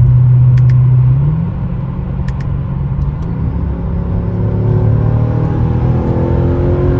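Mercedes E55 AMG's supercharged 5.4-litre V8 (M113K) under acceleration. It eases off about a second and a half in, then the revs climb steadily again from about four seconds in.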